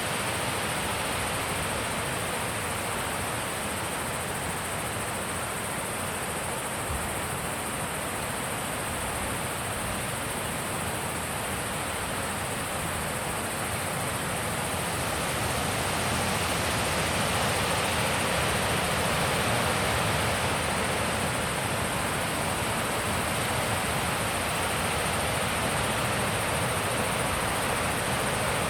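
Wind blowing steadily, growing louder about halfway through.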